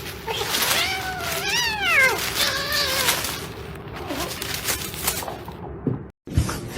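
A cat meowing: one long meow about a second in that rises and then falls in pitch, followed by shorter meows.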